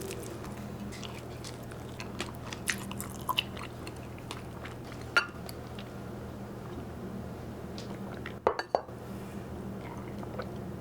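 A person eating at the table: scattered soft crunches and a few sharp clicks of tableware, with a quick cluster of louder clicks about eight seconds in, over a steady low hum.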